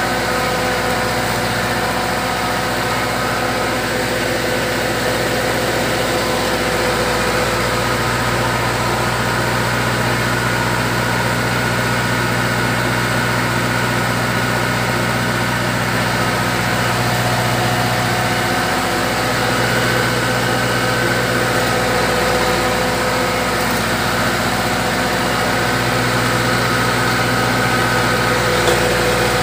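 Fish feed pellet machine running under its D4 drive engine: a steady mechanical drone whose low note shifts slightly now and then.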